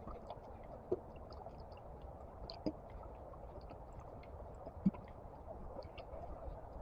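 Faint, muffled walking and handling noise from an action camera inside a protective case: a low rumble with many small clicks and three louder knocks, about a second, two and a half and five seconds in.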